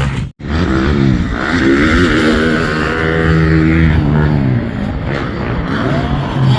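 85cc two-stroke motocross bike engine revving hard as it is ridden, its pitch climbing, holding and dropping away through the throttle. The sound cuts out for a split second just after the start.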